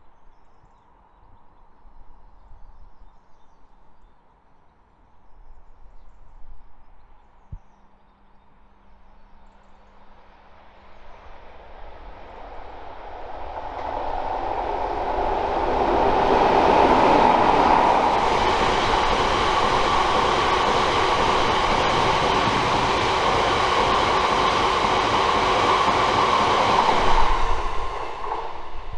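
Class 60 diesel locomotive 60028 hauling a freight train through a station at speed. It is faint at first and grows louder from about halfway, then runs loud and steady with a many-toned engine note as the locomotive and its wagons rush past, dropping off sharply near the end.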